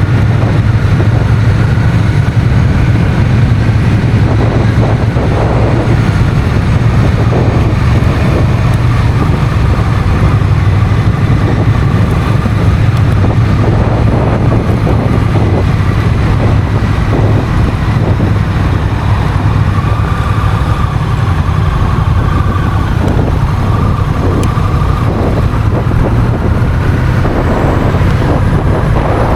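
Honda CMX1100 Rebel's parallel-twin engine running steadily while the motorcycle is ridden along, with wind noise on the microphone.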